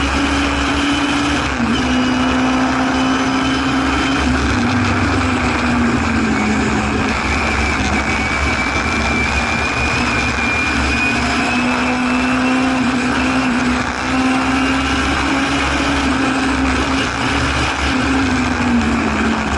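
Singer Chamois race car's rear-mounted four-cylinder engine running hard at high revs, heard from inside the cabin over road and wind noise. The engine note dips a little about five seconds in, climbs back about halfway through and drops again near the end, as the throttle is eased and reapplied through the corners.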